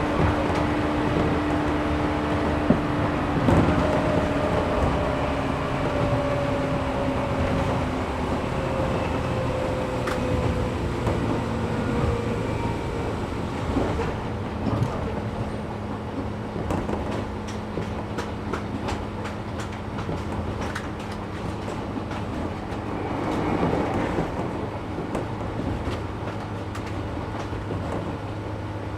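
Interior running sound of a 113 series 1500-subseries electric multiple unit with resistance control: the motor and gear whine falls slowly in pitch as the train slows. In the second half a steady low hum remains under a run of short clicks from the wheels over the rail joints.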